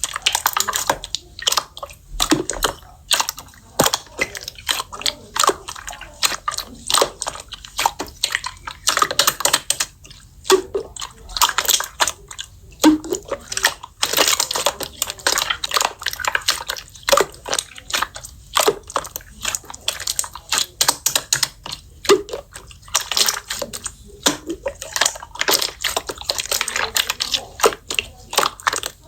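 Hands squeezing, poking and stretching slime: a continuous run of sticky wet clicks, crackles and small air pops.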